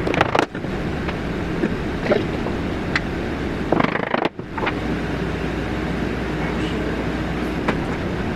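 Steady mechanical noise of a woodworking power tool at work, broken by two abrupt brief gaps, with a low steady hum joining it about five seconds in.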